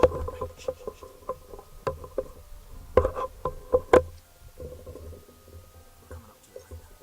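Footsteps walking, a sharp step roughly every half second, heaviest about three to four seconds in, over a low rumble.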